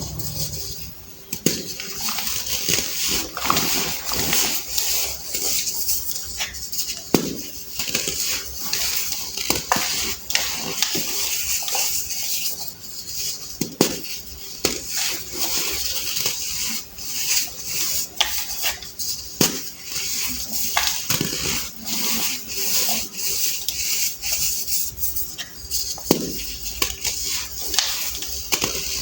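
Compressed baking soda being crushed and crumbled: a steady run of dry crunches and crackles, with a sharper snap every few seconds.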